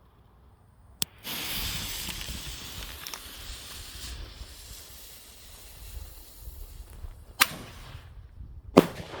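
Firework going off: a sharp crack about a second in, then a long hiss that slowly fades, with two more sharp bangs near the end.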